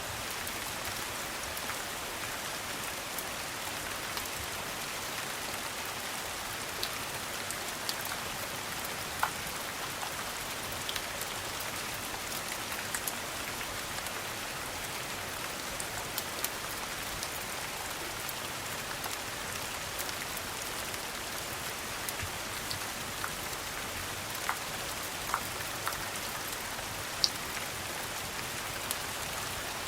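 Steady rain hiss, with scattered sharp, irregular pops and ticks from a crackling log fire.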